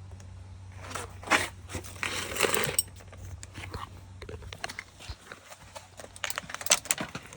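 Handling noise: rustling about a second in, then a run of light clicks and knocks.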